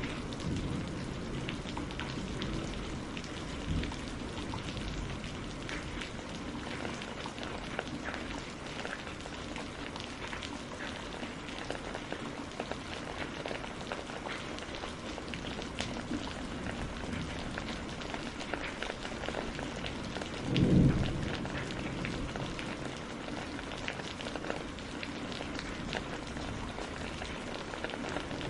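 Steady rain pattering on a greenhouse roof, with many separate drops ticking through it. About two-thirds of the way through there is one short, low rumble of thunder, the loudest moment.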